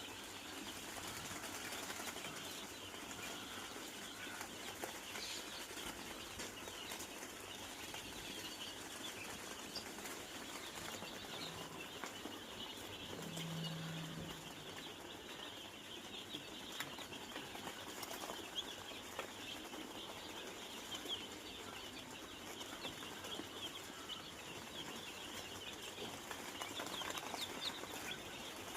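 A shed full of four-day-old chicks peeping constantly, many small overlapping high chirps, with scattered light clicks and a brief low hum about halfway through.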